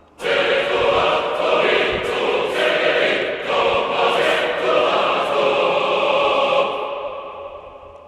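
Background music: a choir singing sustained chords, fading out near the end.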